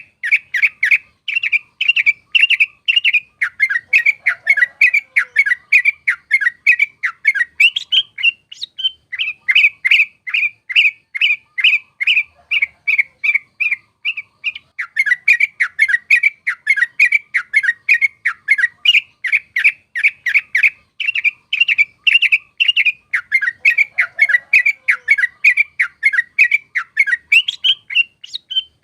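Yellow-vented bulbul song: a fast run of short, rolling chirps, about three or four a second, with two brief pauses.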